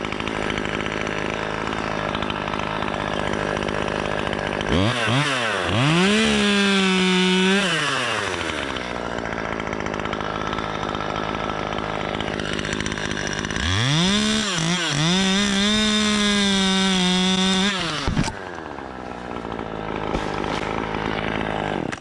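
Two-stroke chainsaw running, its engine sweeping up to full throttle twice, once about five seconds in and again at about fourteen seconds, holding high for a few seconds each time before dropping back, against a steady lower engine note.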